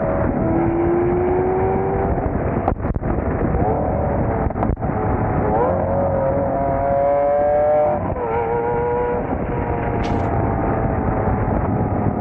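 Performance car engine running loud, revving up and down, with a long rise in pitch that drops off about eight seconds in.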